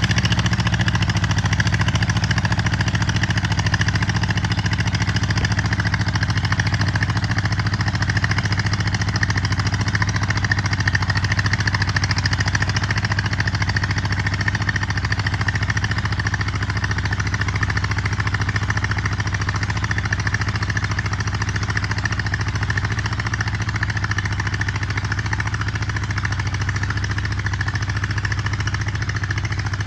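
Allis-Chalmers CA tractor's four-cylinder gasoline engine running steadily under load while pulling a disc harrow.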